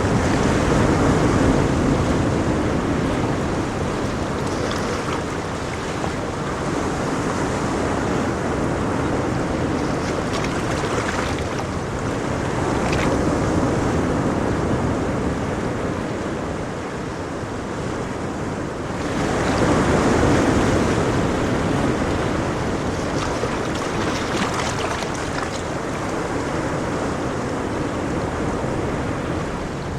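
Ocean waves breaking and washing ashore in a continuous surf, rising and falling in slow swells every several seconds, with one bigger wave about twenty seconds in.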